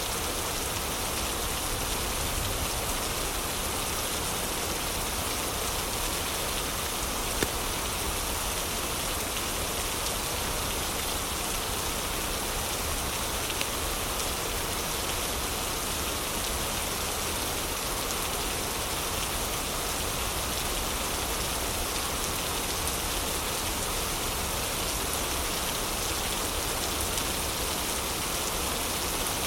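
Steady heavy rain, an even rushing hiss of falling and splashing drops, with two brief sharp clicks, one about seven seconds in and one near the middle.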